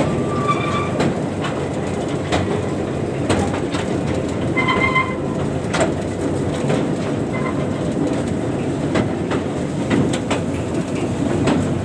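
A train running steadily along the track with a continuous rumble, its wheels clicking irregularly over the rail joints.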